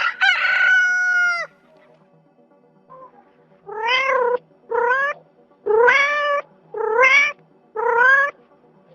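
Animal calls: one long call that falls away at its end in the first second and a half, then, after a pause, five short cries, each rising in pitch, about one a second. Soft background music runs underneath.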